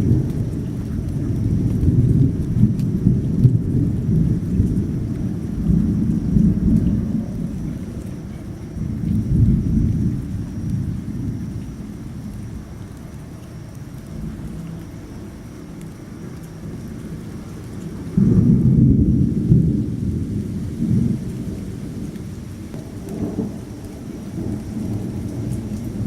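Thunder rumbling in long rolls, with a sudden louder crack and rumble about eighteen seconds in, over steady rain.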